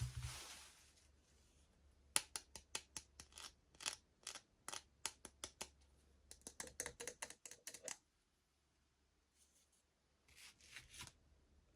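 Faint, irregular clicks, taps and scratches of hands handling small plastic toys and packaging, in a quick cluster that stops abruptly, then a few more near the end.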